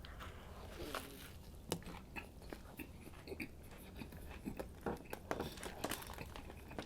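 A person chewing a mouthful of Subway Club sandwich close to the microphone: faint, irregular clicks and crunches.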